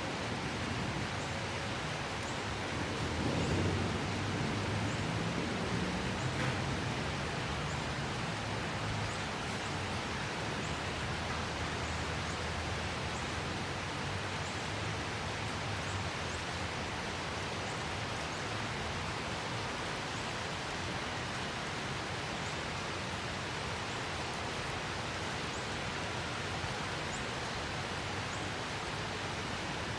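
Steady rain falling, an even hiss. A low rumble swells and fades about three to seven seconds in.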